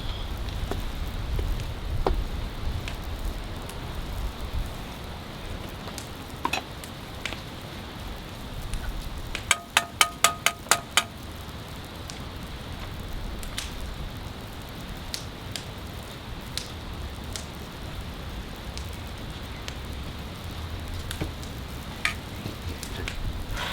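Steady rain falling, with scattered sharp drips and ticks. About halfway through comes a quick run of about seven sharp, metallic clicks.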